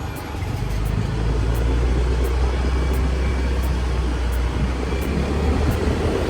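Motorbike running at riding speed, a steady low rumble with wind and road noise on the microphone.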